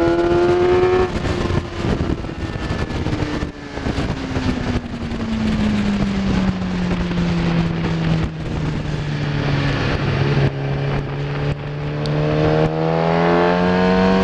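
Kawasaki ZX10R inline-four engine, heard over heavy wind rush: the revs climb, and about a second in the throttle closes and the note falls slowly through a long slowing. Over the last few seconds the revs climb again as the bike accelerates.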